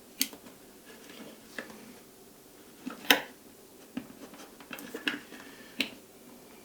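Scattered light clicks and knocks, about eight in all, of hands working at the hose connections inside a resin wash station, the loudest about three seconds in.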